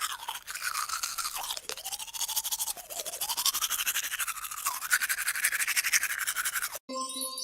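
Toothbrush scrubbing teeth in fast, even strokes, the sound rising and falling in pitch as the brush sweeps. Near the end a short chime tone sounds.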